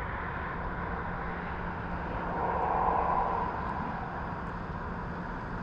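Steady rumble of road traffic, swelling as a vehicle goes by about halfway through.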